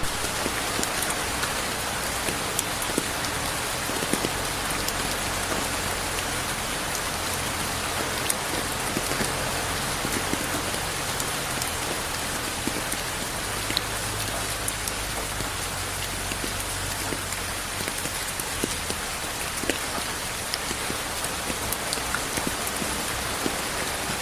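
Steady rain falling, with many scattered drops ticking on a surface through the even hiss; no thunder.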